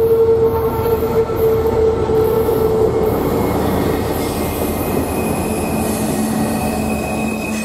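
Norfolk Southern freight train rolling past on a tight curve, with steady rumble and the wheels' flanges squealing against the rail: one held squeal fades out about three seconds in as a higher-pitched one sets in, joined later by a lower one.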